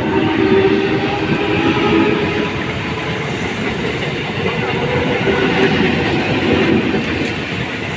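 Eastern Railway electric multiple unit (EMU) local train passing close by at speed: the loud, steady running of its wheels on the rails, with a humming tone underneath throughout.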